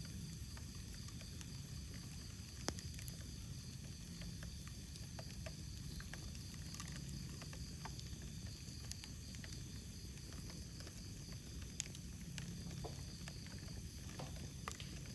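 Wood fire crackling: scattered small pops and snaps over a steady low rumble, with two sharper pops, one about two and a half seconds in and one near twelve seconds.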